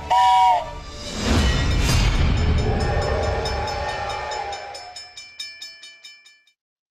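Train sound effect: a brief whistle tone, then a rumbling train with a held horn chord. The rumble gives way to rhythmic wheel clacks that fade out about six and a half seconds in.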